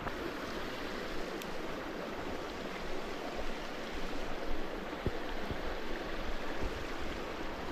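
Mountain brook flowing, a steady rush of running water.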